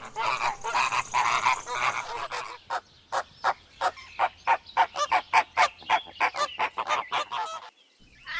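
Flamingos honking: a dense chorus of overlapping calls from the flock, then a run of short, evenly spaced honks at about four a second that stops shortly before the end.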